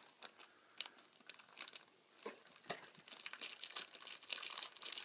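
Plastic packaging crinkling and rustling as a speaker component is handled and pulled out, a few scattered clicks at first, then steady crinkling from about halfway through.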